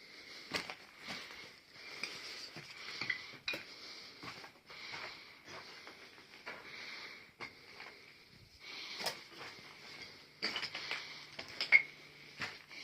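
Irregular clinks and knocks of hard debris being disturbed, over a steady high hiss; the sharpest clink comes near the end.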